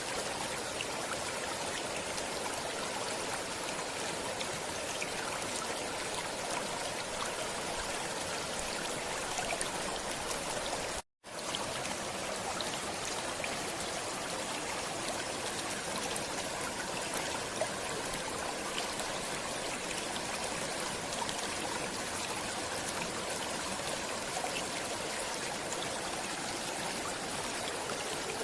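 A stream flowing steadily over rocks, with an even rushing and trickling. The sound cuts out completely for a split second about eleven seconds in, then carries on unchanged.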